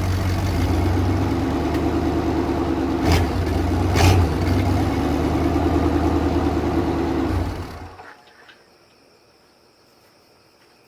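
Cadillac HT4100 V8 idling through an unclamped knockoff Flowmaster muffler with leaking exhaust joints. Two short knocks come about three and four seconds in. The engine is switched off about three-quarters of the way through and stops.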